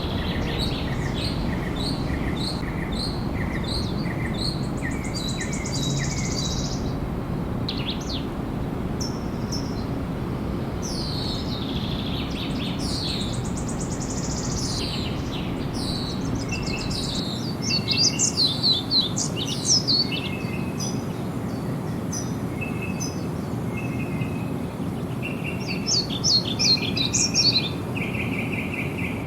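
Several birds singing and calling: steady series of repeated chirps at first, then varied quick phrases, with the loudest bursts of rapid notes about two-thirds through and again near the end. A steady background hiss lies underneath.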